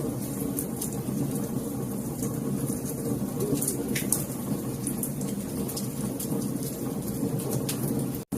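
Wood fire crackling in a fireplace: frequent small sharp pops and snaps over a steady low rumble of the burning fire. The sound cuts out for an instant near the end.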